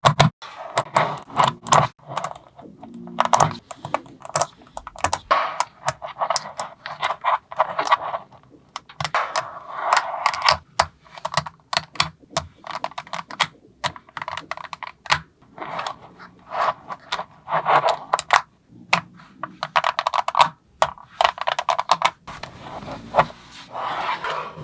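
Small magnetic balls clicking and snapping together, with rattling runs as clusters of balls are rolled and pressed into place; many sharp, irregular clicks.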